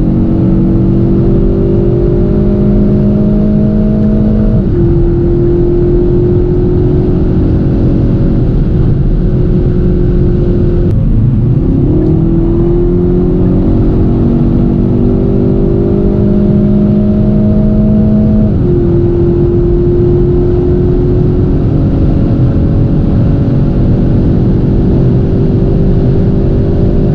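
Kia ProCeed GT's 1.6-litre turbocharged four-cylinder petrol engine, heard inside the cabin over steady tyre and road noise, pulling up through the revs under acceleration. Its pitch climbs slowly, then drops sharply about five seconds in and again about eighteen seconds in as the seven-speed dual-clutch gearbox shifts up, with a short dip and recovery around eleven seconds.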